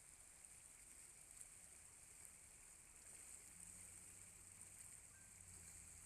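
Near silence: faint outdoor ambience with a steady high hiss, and a faint low hum that comes in about three and a half seconds in.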